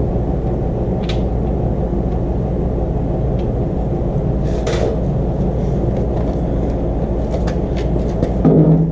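A steady low rumble from something running, with a few sharp clinks of tools on metal as engine mounting bolts are worked loose.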